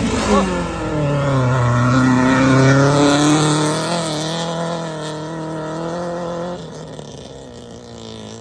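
Race car engine revving hard, its pitch climbing and dropping, then fading as the car moves away over the last few seconds.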